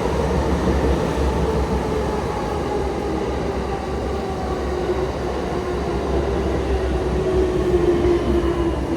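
Electric commuter train pulling into the platform and slowing, its motor whine falling steadily in pitch over a continuous low rumble.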